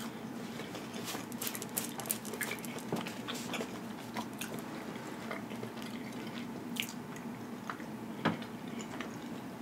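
A person chewing a mouthful of pizza, with soft, scattered mouth clicks and smacks over a faint steady low hum.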